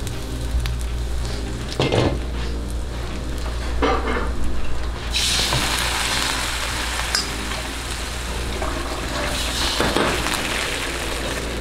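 A large fried egg sizzling in hot oil in a wok on a gas burner, over a steady low hum, with a few metal knocks from the ladle against the wok. The sizzle grows louder and brighter about five seconds in.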